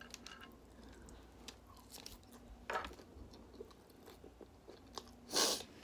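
Close-miked chewing of a mouthful of salad with steak and fajita vegetables: faint soft crunching and wet mouth clicks. A short, louder hiss comes near the end.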